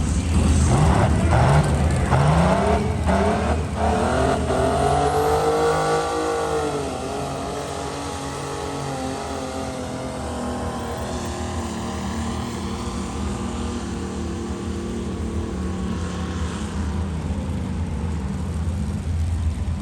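Triple-turbo diesel pulling tractor running hard, its engine pitch climbing over the first few seconds and then falling away. From about seven seconds in it settles into a quieter, steady drone.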